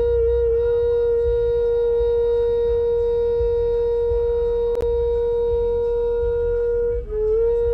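2019 Ram 1500's A/C system humming: a loud, steady, single-pitched drone that is the sign of an A/C valve sticking open. A sharp click comes about two-thirds of the way through, and near the end the hum wavers and dips in pitch.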